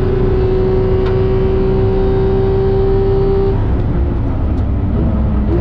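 Porsche 991.2 GT3's 4.0-litre naturally aspirated flat-six, heard from inside the cabin, running at a steady high pitch. About three and a half seconds in the note cuts away as the driver lifts off to brake, then rises briefly near the end.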